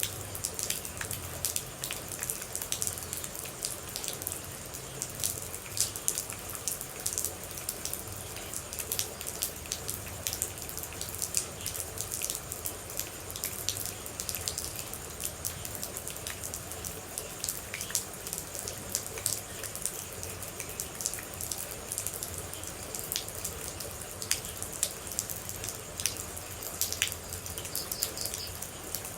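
Steady rain with water droplets dripping: a constant hiss over many sharp, irregular drip ticks, with a soft low rumble beneath.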